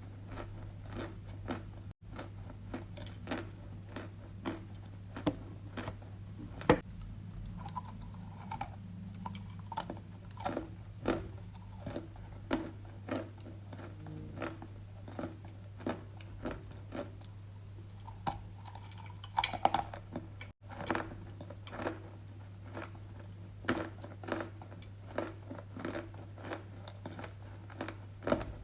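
Dry edible clay being bitten and chewed close to the microphone, with crunches about once or twice a second. There is a sharp, loud bite about a quarter of the way through and a burst of heavier crunching about two-thirds through. A steady low hum runs underneath.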